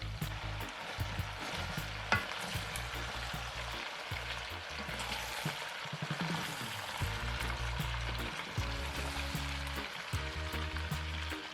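Food sizzling and crackling as it fries in a pan, over background music with a low bass line.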